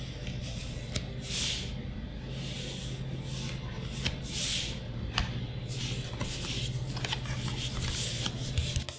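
Hands handling Magic: The Gathering booster packs and cards: the foil wrapper rustling in several swells and cards sliding, with a few sharp clicks. A low steady hum runs underneath.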